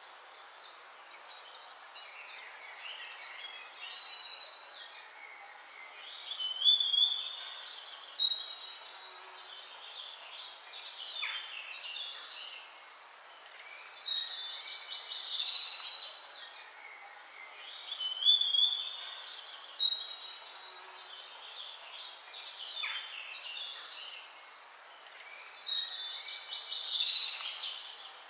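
Wild birds singing: a steady background of small chirps, with louder bursts of whistled song breaking in every four to six seconds.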